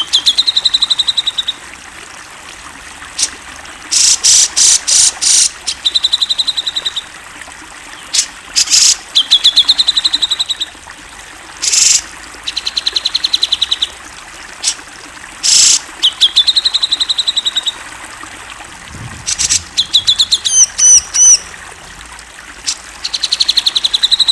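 Grey-cheeked bulbul (cucak jenggot) singing loudly. It gives a series of rapid trills about a second long each, broken by short harsh noisy calls, five of them in quick succession about four seconds in, and a few high up-swept notes near the end.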